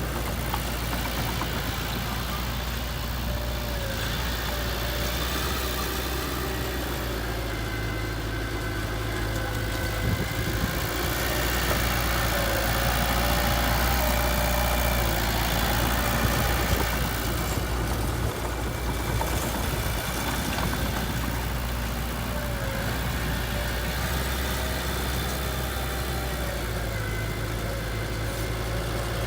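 Diesel engine of heavy earthmoving equipment running steadily at low revs, a little louder for a few seconds in the middle.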